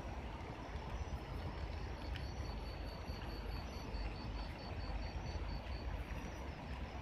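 Light rain in a garden: a steady hiss over a low rumble. A faint high chirp pulses about four times a second in the middle.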